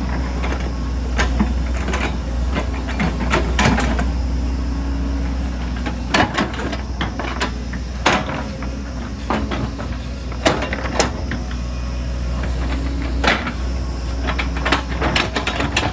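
Excavator at work: its diesel engine runs with a steady low drone while the bucket and tracks scrape and clank, with irregular sharp knocks every second or two.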